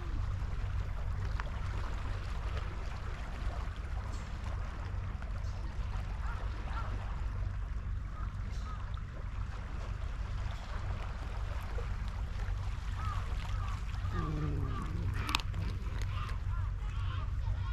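Steady low rumble of wind buffeting the microphone on an open seawall. A few short, wavering high calls come in near the end.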